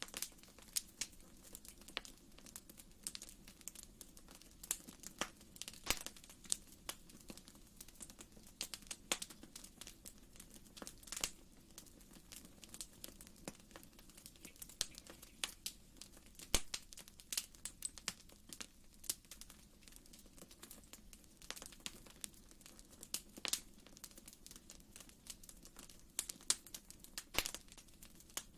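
Wood fire in a fireplace crackling: irregular sharp pops and snaps, several a second, over a faint steady background.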